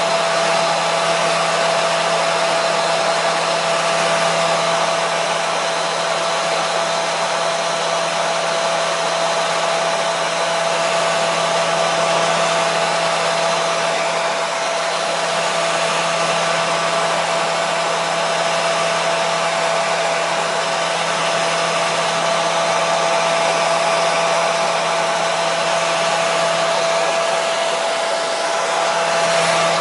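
Hair dryer running steadily on one setting: a constant rush of blown air with a steady motor whine.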